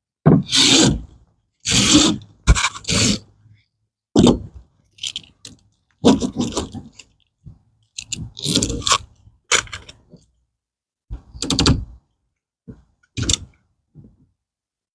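Repeated short scraping and rustling strokes, about a dozen with gaps between them, from screen mesh being worked along a screen door frame during rescreening.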